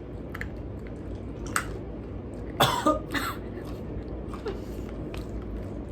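A person coughing briefly about two and a half seconds in, amid a few faint clicks.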